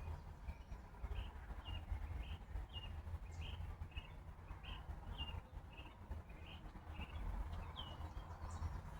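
A bird chirping over and over, short chirps at about two a second, over a steady low rumble.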